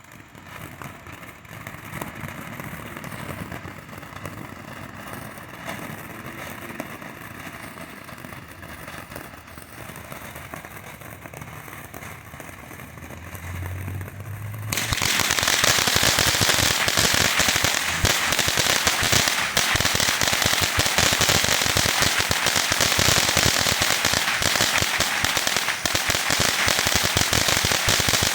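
Firework ground fountain spraying with a steady hiss. About 15 seconds in it switches suddenly to a much louder, dense crackle that keeps on going.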